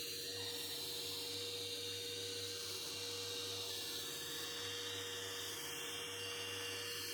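Steady hum of a small electric motor running, with a constant whine and hiss.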